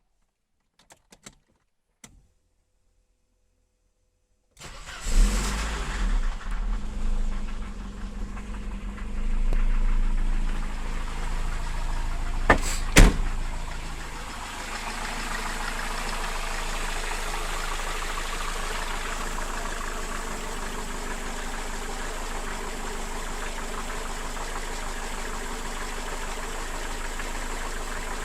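Mercedes-Benz M102 inline-four petrol engine starting about four and a half seconds in, running unevenly at first, then settling to a steady idle. About halfway through there are two sharp knocks, the loudest sounds here. The owner attributes the engine's extraneous noise to wear in the pistons, rings, piston pins and connecting-rod bearings.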